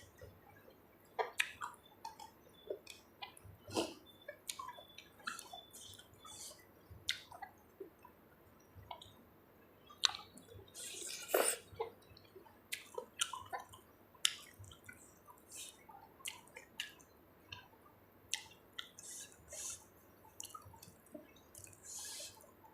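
A person eating close to the microphone, a spicy Thai seafood salad: irregular wet chewing, lip smacks and small clicks, with a longer wet slurp about eleven seconds in.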